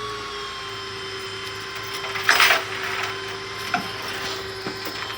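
A tow truck's winch or hydraulics whines steadily while a car is being pulled aboard. About two seconds in comes a brief, loud, rough scraping, followed by a few small knocks.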